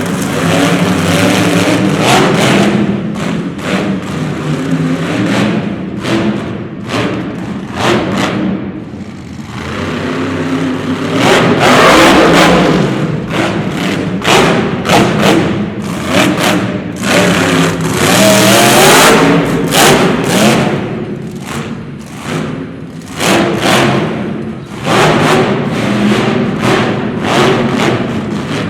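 Mega truck's engine revving hard in repeated bursts, pitch climbing and dropping, with heavy thumps scattered through.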